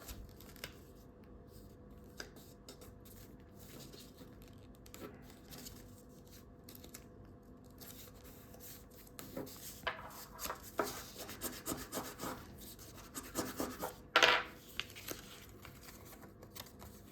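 A sheet of A4 paper being handled and folded: faint light rustles at first, then several seconds of rustling and creasing from about ten seconds in, with one louder crackle near the end.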